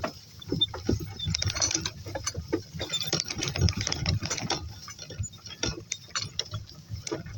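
Irregular rattling and clicking of a donkey-drawn cart and its harness moving along, over a low rumble.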